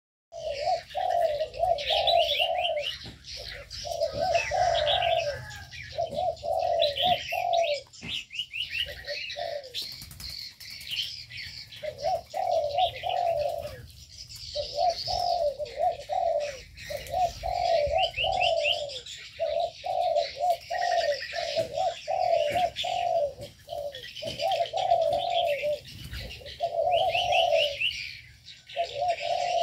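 Several aviary doves cooing in overlapping phrases of a second or two, one after another with short gaps, while smaller birds keep up quick high chirps and trills.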